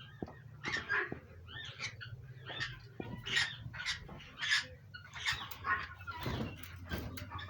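Cockatiels calling: a string of short, high chirps, about one or two a second.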